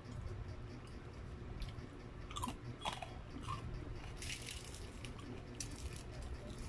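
Close-miked biting and chewing of crispy battered fried chicken, with several irregular crunches.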